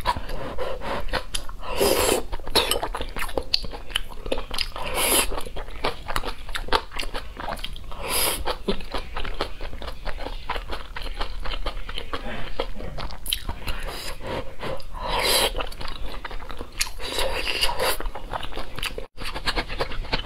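Close-miked mouth sounds of chewing braised pork belly: steady wet smacking and clicking, with a few short, louder bursts of noise spread through.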